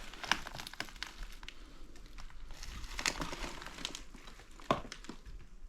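Footsteps shuffling and crunching over debris on a sagging floor, with scattered sharp clicks and cracks, the loudest about three seconds in and again near the end.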